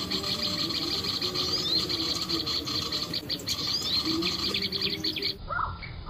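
Small birds chirping and twittering: rapid high chirps with short rising notes over a steady high trill. The sound breaks off suddenly near the end.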